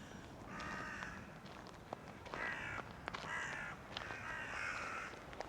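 A flock of crows cawing: about four drawn-out caws follow one another at intervals of a second or so.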